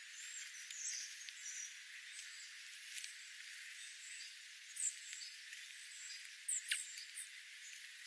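Small birds giving scattered short, high chirps over a steady hiss, with a few sharp clicks; the loudest chirps come about five and six and a half seconds in.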